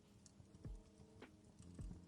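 Faint fireplace crackle: a few soft separate pops about half a second apart over a low, steady hum of tones.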